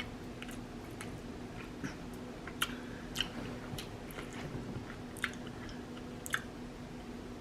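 Close-up chewing and wet mouth clicks of a person eating a seafood boil, with sharp smacks every half second or so. A faint steady hum runs underneath.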